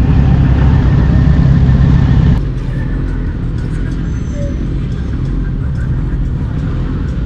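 Motorcycle riding at highway speed: engine and rushing wind noise. The sound drops suddenly about two and a half seconds in, then runs on steadily at a lower level.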